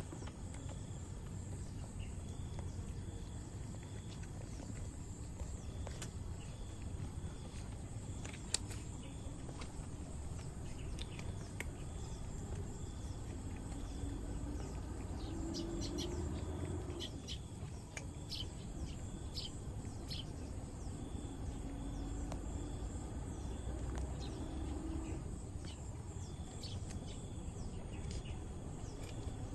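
Outdoor ambience: a steady low rumble with a faint, continuous high chirring and a few scattered small clicks around the middle.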